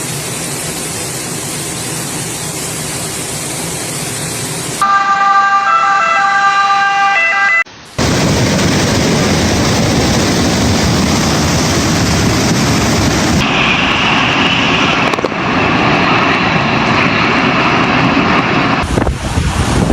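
A run of rushing noise from floodwater and storm, cut in separate pieces. About five seconds in there are about three seconds of a siren with stepping tones. After a short gap, louder rushing noise follows.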